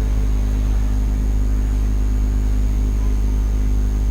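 Steady low rumble of a car driving, heard inside the cabin, with a faint high-pitched whine held throughout.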